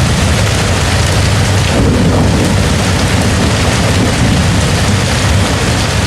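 Heavy rain beating steadily on a camping tent, with a low rumble underneath that swells briefly about two seconds in.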